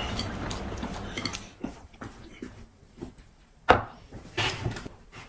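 Clinks and clicks of chopsticks and dishes with eating sounds during a meal; a sharp click about two-thirds of the way through is the loudest.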